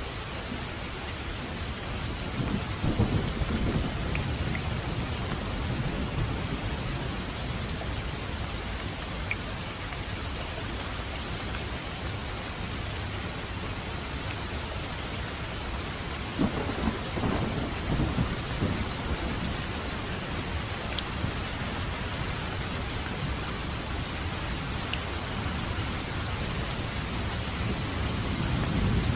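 Steady rain falling on a roof, with low rumbles of thunder rolling in a few seconds in, again past the middle, and building once more near the end.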